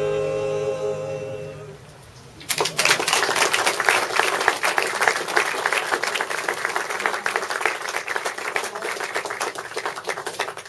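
A sung note is held and fades out in the first two seconds, then audience applause breaks out about two and a half seconds in and runs on until just past the end.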